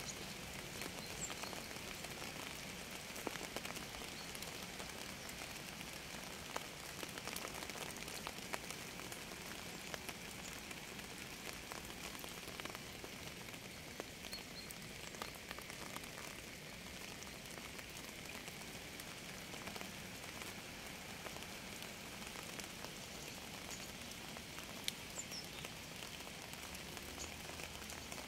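Steady rain falling, with many individual drops tapping throughout.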